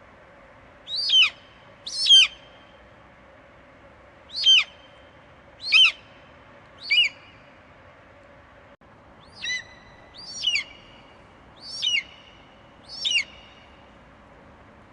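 An eagle screeching: nine short, high calls, each sliding down in pitch, spaced one to two and a half seconds apart.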